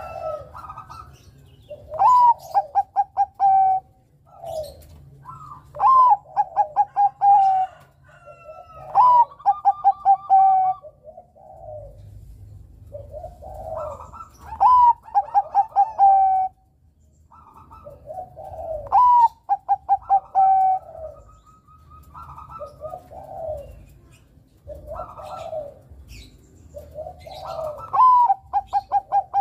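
Bangkok-type perkutut (zebra dove) singing its cooing song. It gives about six loud phrases, each a rising note followed by a quick run of short trilled coos, with softer coos in between.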